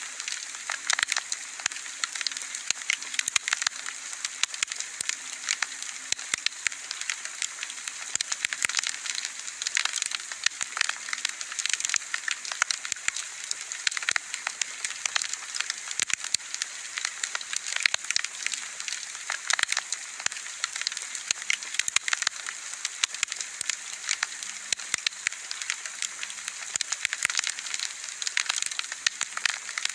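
Wood bonfire crackling: a dense, irregular stream of sharp snaps and pops over a soft steady hiss.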